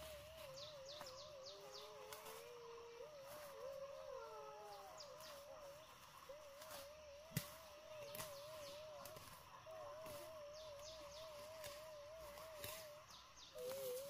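Faint forest ambience of birds calling: a warbling call that wavers steadily up and down and holds through most of the stretch, with quick high falling chirps over it. One sharp snap about seven seconds in.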